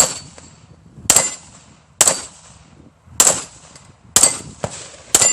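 Six gunshots fired about one a second, several followed by a short ringing ping from steel targets being hit.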